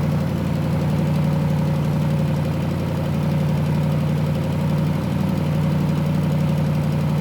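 Audi RS Q8's 4.0-litre twin-turbo V8 idling steadily after a cold start, with an even, unchanging note.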